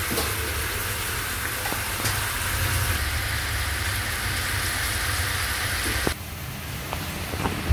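Pork and julienned ginger sizzling steadily in a frying pan. The sizzle cuts off suddenly about six seconds in, leaving quieter room sound with a few light clicks.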